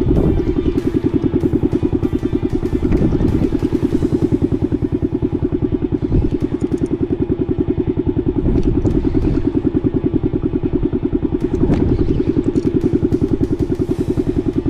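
Boat engine running steadily with a rapid, even throb, with a few light clicks and clatter on top.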